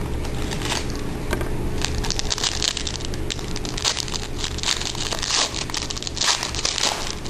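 Wrapper of a trading-card pack crinkling and tearing as it is opened by hand, in irregular crackly bursts that are densest through the middle and latter part, over a steady low hum.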